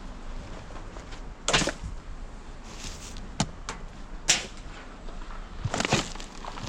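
Rummaging through a box of discarded items: a few separate knocks and rustling handling sounds over a low steady background, the sharpest knock a little past four seconds in.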